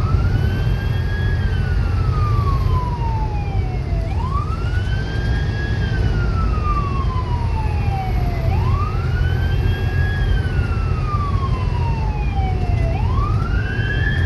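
Fire engine siren sounding a wail: each cycle rises quickly, then falls slowly, repeating about every four and a half seconds, over a heavy low rumble.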